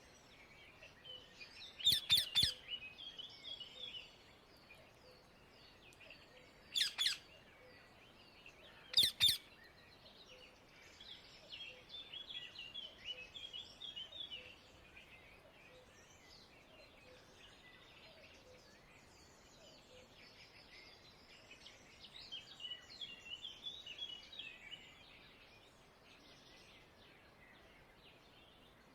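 Rose-ringed (Indian ringneck) parakeets calling: a quick cluster of loud, shrill screeches about two seconds in, then single screeches twice a few seconds later. Longer stretches of softer, busy bird chirping follow in the middle and again near the end.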